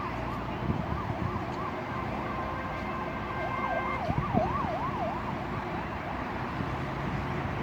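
An emergency vehicle's siren wails in a fast up-and-down yelp, about three sweeps a second, and fades out about five seconds in. Stormy wind noise runs underneath.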